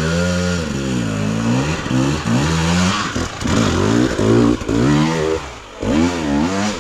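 KTM enduro dirt bike engine revving up and down in short, repeated throttle bursts, about once a second, with a brief drop in revs about six seconds in.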